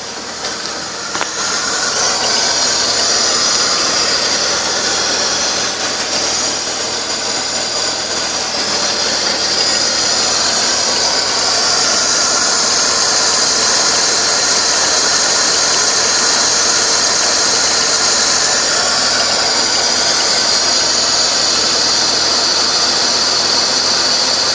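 2003 BMW 325xi's inline-six engine running with the car in gear, with a steady high-pitched squeal over it that grows louder about two seconds in and then holds.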